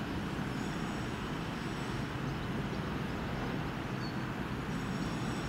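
Passing train running steadily, a continuous low rumble with faint high ringing tones above it.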